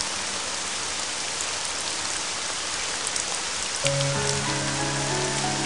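Steady rain falling, an even hiss with scattered drip ticks. About four seconds in, sustained low musical notes come in over the rain.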